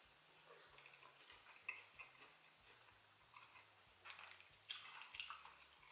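Faint mouth sounds of a person chewing soft plantain pottage: quiet smacks and clicks, a sharp one about two seconds in and a small cluster near the end.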